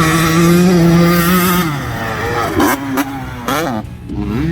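Dirt bike engine on a motocross track, held steady at high revs for a second and a half, then dropping off and revving up and down a couple of times.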